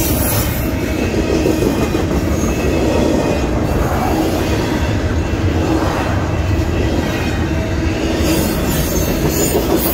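Union Pacific intermodal freight train rolling past, a steady, loud rumble of the cars on the rails.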